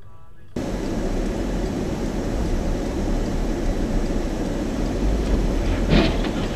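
Steady noise of a moving vehicle that cuts in abruptly about half a second in, with one short loud knock near the end.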